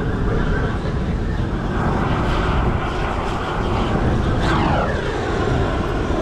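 Loud, steady rumble of jet aircraft engine noise, with a falling whine about four and a half seconds in.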